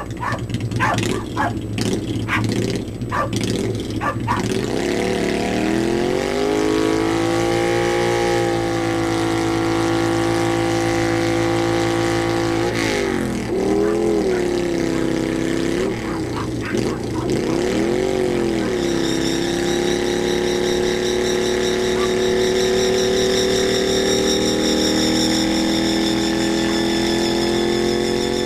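1995 Kawasaki VN800 V-twin with drag pipes revved hard during a rear-tire burnout, its pitch climbing, dipping and climbing again several times, then held high and steady. A high wavering squeal from the spinning rear tire joins about two-thirds of the way in; a few sharp clicks come in the first seconds.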